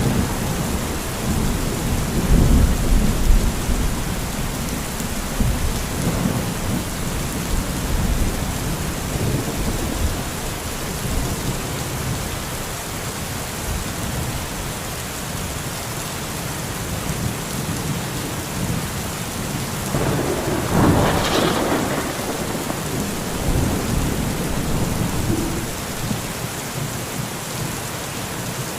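Steady rain falling during a thunderstorm, with low rolling thunder that is strongest in the first few seconds and a sharper peal of thunder about twenty seconds in.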